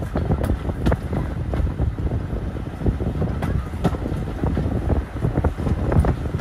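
Railway carriage running along the track: a steady low rumble with irregular knocks and rattles, and wind buffeting the microphone.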